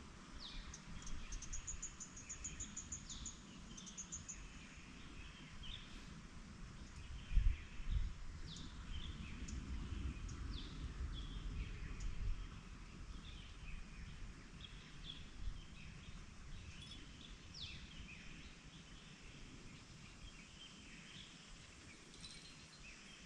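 Outdoor ambience of birds chirping, with many short scattered calls and a fast high trill a second or two in. A couple of low thumps come about seven and eight seconds in.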